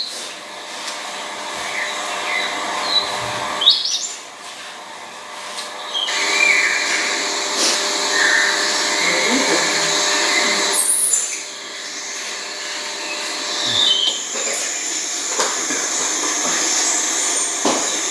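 A few short, high bird chirps over a steady whirring hiss.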